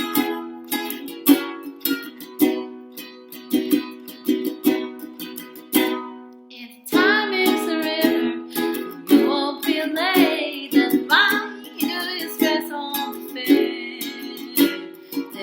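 A strummed string instrument plays chords alone for a while. Then, about seven seconds in, a woman's singing voice joins over the strumming.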